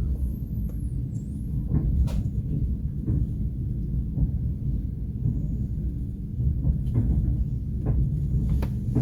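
Passenger train carriage running on the rails: a steady low rumble, with scattered clicks and knocks from the wheels and car body.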